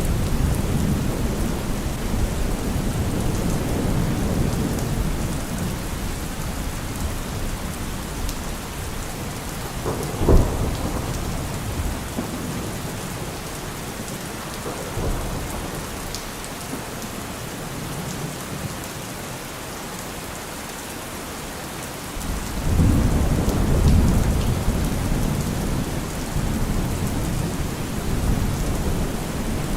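Steady rain falling, with rolling thunder. The rumble is heavy at first and fades through the middle, a sharp crack comes about ten seconds in, and a new roll of thunder builds from about two-thirds of the way through.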